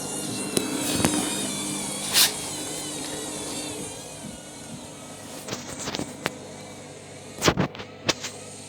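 Candy Grand'O Vita 7 kg washing machine spinning in its pre-wash: a steady motor whine and drum hum that drops in level about four seconds in, described as a fairly quiet spin. Several sharp knocks break through, one about two seconds in and the loudest near the end.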